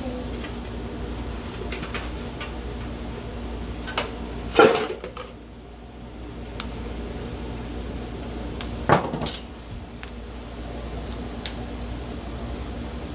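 Metal tools and engine parts clinking and clanking during hand work on an ATV engine, with two louder metallic knocks about four and a half and nine seconds in, over a steady low hum.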